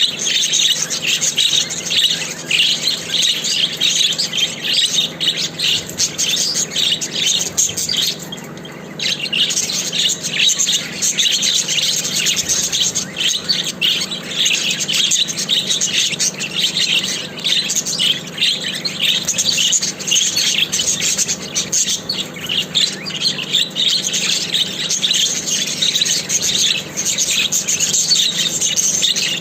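Budgerigars chattering and warbling in a fast, continuous stream of chirps and squawks, with a brief pause about eight seconds in.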